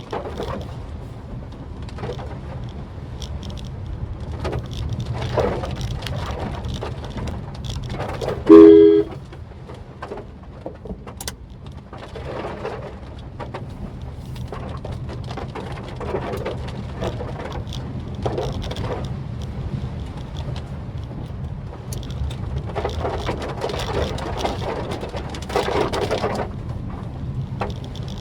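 Inside a Maruti Suzuki Swift Dzire driving on wet roads in rain: a steady low engine and road rumble with recurring swishes of water and rain noise. About eight and a half seconds in, a two-tone car horn sounds once, briefly; it is the loudest sound.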